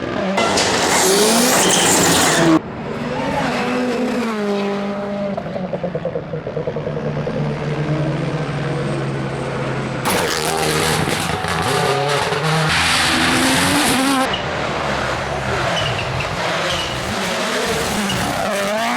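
Rally cars racing flat out on a stage, engines revving up and down through gear changes as they pass. The sound changes abruptly a few times, about 2.5, 10 and 14 seconds in, as different cars follow one another.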